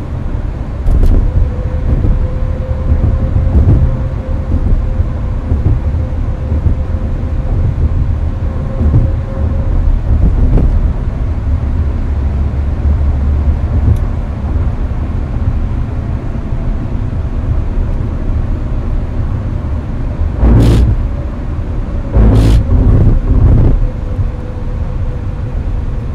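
Hyundai Avante driving at highway speed, heard from inside the cabin: a steady low road and engine rumble mixed with air-conditioning fan noise and a faint steady whine. Near the end the tyres go over something twice, giving two short, loud bursts of rumble.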